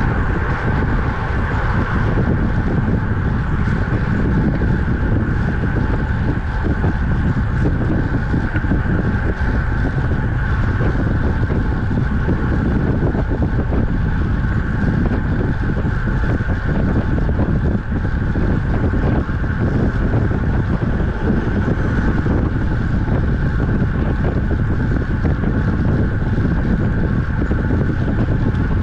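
Steady wind rush on the microphone while riding a road bicycle. There is a constant low rumble of road noise under it and a steady hum higher up.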